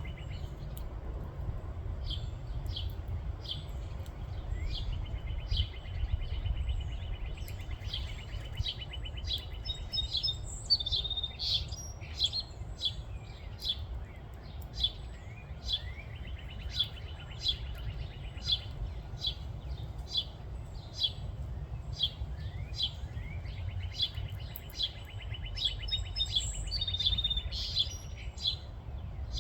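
Birds chirping in short, high repeated notes, about two a second, with a steady high trill coming and going. A constant low rumble runs underneath.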